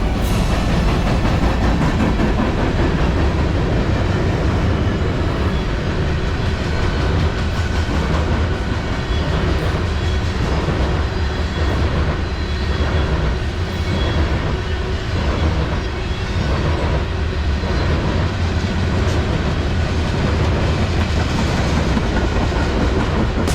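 Train passing at speed: a steady, loud rumble of steel wheels on the rails, with a rhythmic clickety-clack over the rail joints through the middle.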